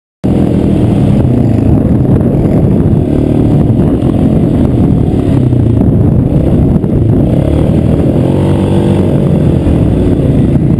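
Polaris 850cc engine in a Roketa GK-06 go-kart running loud, its revs rising and falling again and again under throttle.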